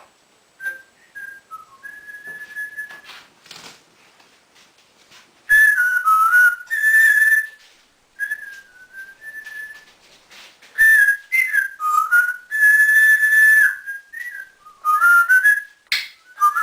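African grey parrot whistling a string of short pitched phrases, some held steady and some dipping down and back up in pitch. The first whistles are soft; from about five seconds in they are loud, with brief pauses between phrases.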